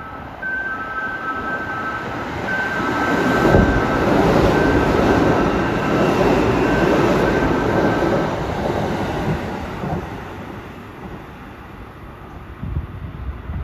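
Electric commuter train running past, its rumble building about three seconds in, loudest through the middle, then fading. Over the first half, a two-note electronic bell rings in repeated beats and stops partway through.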